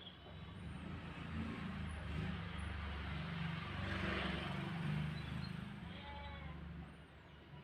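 A motor vehicle passing: a low engine rumble that builds to its loudest about halfway and fades near the end, with a few faint bird chirps and a short trill above it.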